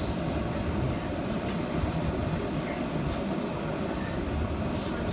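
Steady rushing roar of a gas torch flame used for brazing copper with silver rod, even and unbroken, with most of its weight in the low end.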